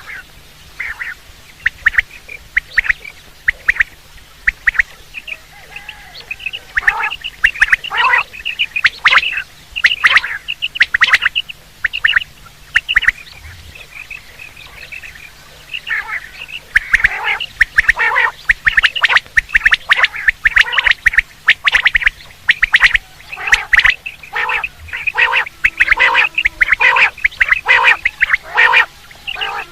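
Quail calling over and over: short, sharp notes in quick runs. Sparse at first, much busier from about a third of the way in, with a brief lull before the calls crowd together again.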